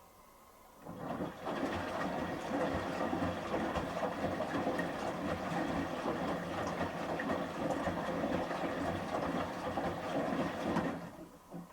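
Samsung Series 5+ washing machine's drum turning during the final rinse, sloshing and tumbling the wet load in rinse water. It starts about a second in, runs steadily for about ten seconds, then stops.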